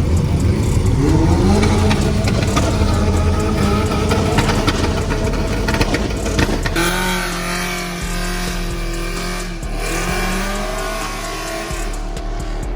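A car engine revving and accelerating hard, its note climbing in pitch. The note changes abruptly about halfway through and climbs again near the end.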